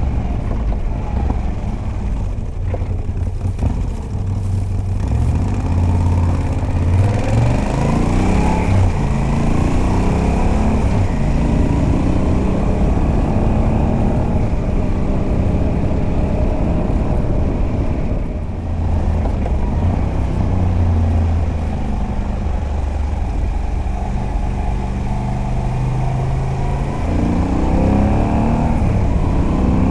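Moto Guzzi V85TT's air-cooled transverse V-twin on a stock exhaust with a Mistral decat, heard from the saddle while riding. The engine note rises in pitch as it pulls through the revs several seconds in, eases off briefly about two-thirds of the way through, then climbs again near the end.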